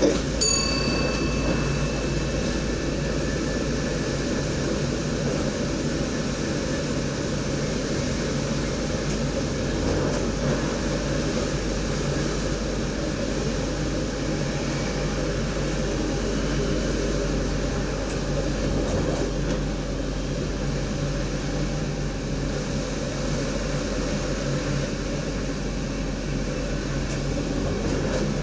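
NS DDZ electric double-decker train running steadily at speed, heard from inside the driver's cab: an even rumble of wheels on track and running gear. A click and a short ringing tone come right at the start.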